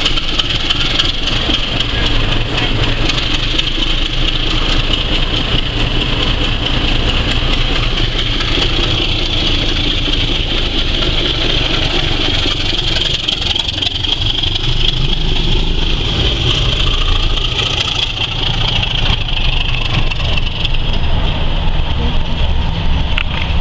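BR Class 27 diesel locomotive D5401, its six-cylinder Sulzer engine working as it pulls away light engine: a steady low engine note with a constant high whine over it.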